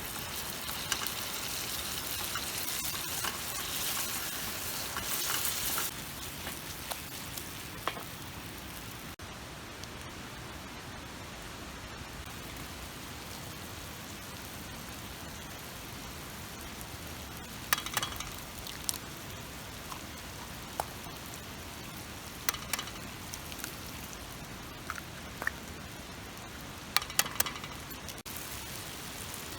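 Shakshuka sizzling in a pan over a campfire, loudest for the first six seconds, then settling to a softer steady hiss. Scattered sharp clicks come near the middle and towards the end.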